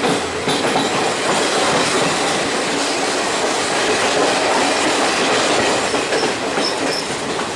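Passenger train running, heard from an open coach door: the steady rumble and rattle of the coaches' wheels on the rails as the train passes in and out of rock tunnels.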